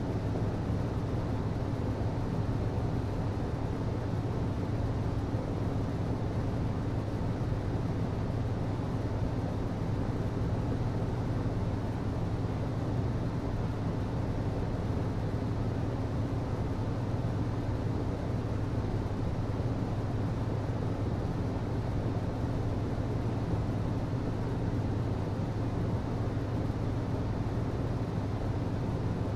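HVAC system running steadily: a constant low hum over an even rush of moving air, unchanging throughout.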